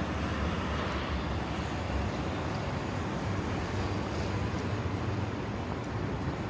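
Steady city background noise: a low rumble of traffic with a hiss over it.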